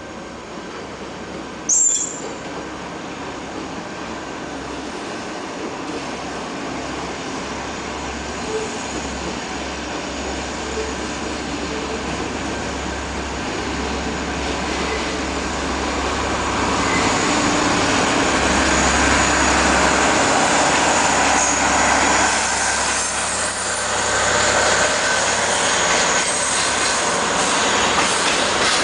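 JR Freight container freight train, hauled by an electric locomotive, approaching and running past, its wheel-on-rail noise growing steadily louder. A brief sharp high-pitched sound comes about two seconds in.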